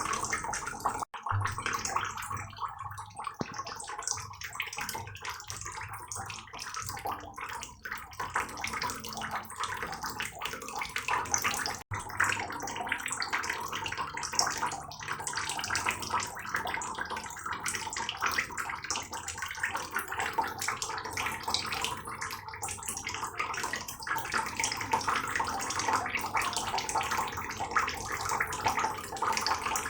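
Heavy rain falling steadily, a dense patter of many drops. The sound cuts out for an instant twice, about a second in and about twelve seconds in.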